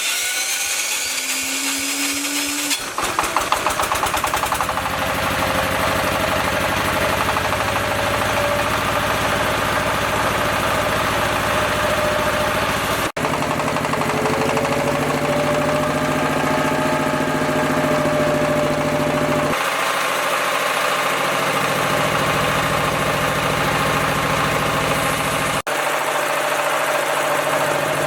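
Repaired generator's engine starting about three seconds in with rapid firing, then running steadily at idle.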